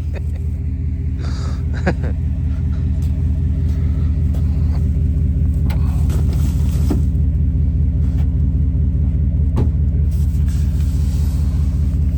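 Vehicle engine running at a steady idle, a deep even rumble, with a few light clicks and knocks over it.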